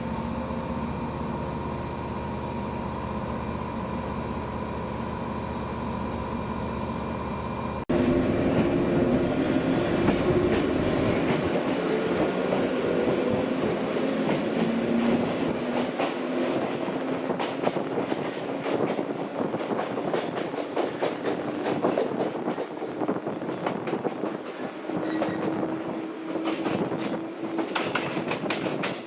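Old JNR-type electric train (115 series): first a steady electrical hum with fixed tones, then, after an abrupt jump in loudness about eight seconds in, the train running with a motor whine that slowly shifts in pitch and rail clicking over the joints.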